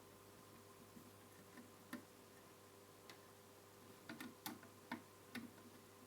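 Faint scattered clicks and taps of a screwdriver undoing screws in a flat-screen TV's chassis, with a quick run of them about four to five and a half seconds in, over a faint steady hum.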